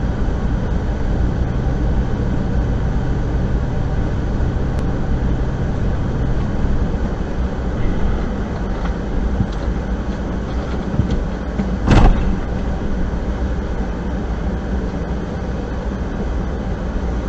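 Car driving, with steady engine and road rumble, then one sharp bang of an impact about twelve seconds in, a collision.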